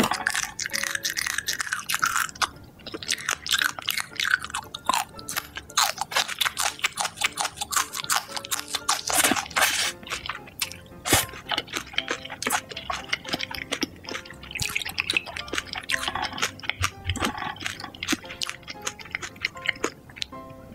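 Close-up eating sounds: a person chewing and crunching food in many quick, irregular crackles and clicks. Quiet background music plays under it.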